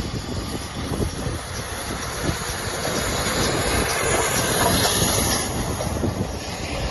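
Steam-hauled train running past on the rails, its wheels and coaches clattering with some wheel squeal. It grows louder and hissier a few seconds in as it comes closest.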